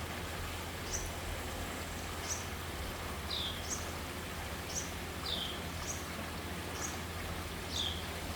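A bird repeating short, high chirps about once a second, with a lower call that slides downward three times among them. These are an adult's calls to its newly fledged young.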